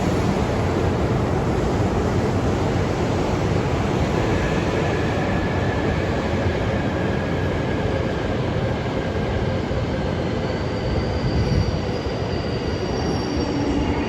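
Shinkansen train running on the platform track: a steady, loud rumble of wheels and running gear. Thin, high squealing tones come in about a third of the way through, with more of them near the end.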